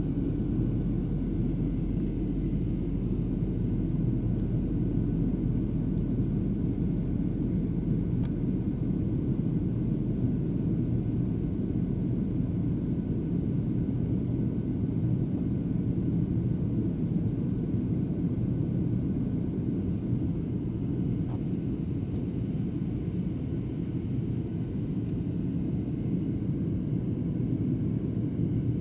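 Steady low drone inside an airliner's passenger cabin in flight: engine and airflow noise, unchanging throughout.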